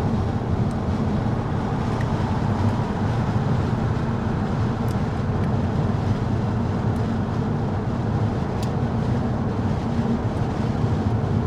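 Steady road and engine rumble inside a moving car's cabin, with a few faint ticks about 5, 7 and 9 seconds in.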